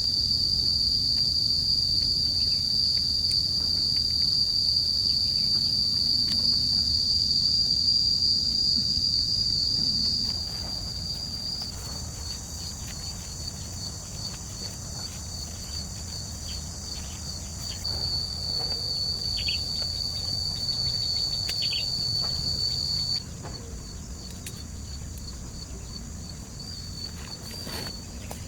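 Steady high-pitched insect drone in a forest, over a low rumbling hiss. The drone drops suddenly in level about ten seconds in and again about twenty-three seconds in, with a few faint short chirps in between.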